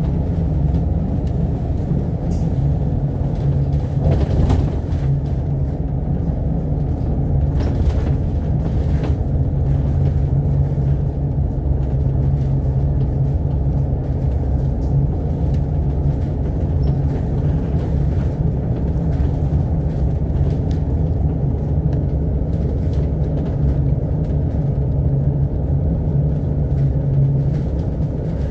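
Cabin noise aboard an Alexander Dennis Enviro500 MMC double-decker bus under way: a steady engine and road drone with a strong low hum, and a few light rattles about four and eight seconds in.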